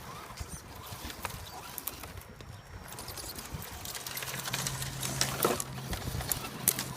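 Scale RC crawler driving over shoreline rocks and stones: scattered clicks and clatter of stones under the tyres, joined about four seconds in by a steady low electric-motor hum.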